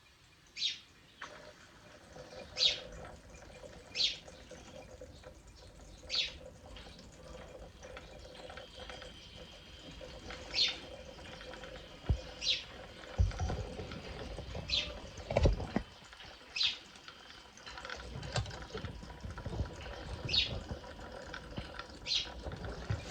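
Rain-cloud humidifier dripping: single water drops plink into its base at irregular intervals of about one to two seconds, the sound the device is made to give of rain. A faint steady hum runs underneath, with a few low thuds around the middle.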